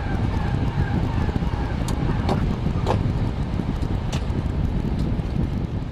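Boeing 767 flight-deck noise: a steady low rumble of airflow and engines, with a few short sharp clicks scattered through it.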